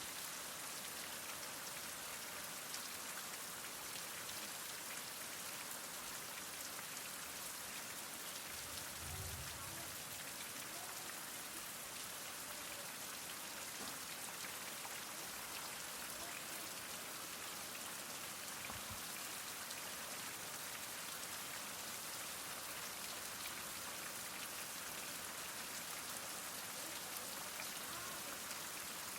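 Heavy rain falling steadily, an even hiss of drops. Twice there is a brief low rumble, about a third of the way in and again near the middle.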